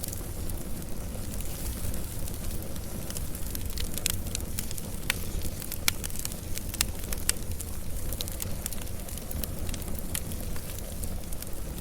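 Wood fire burning with a low steady rumble and frequent sharp crackles and pops.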